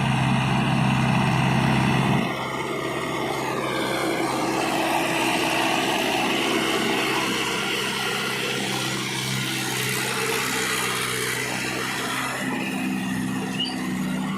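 Mahindra Yuvo 575 4WD tractor's diesel engine running steadily, loud and working hard at first and easing a little about two seconds in.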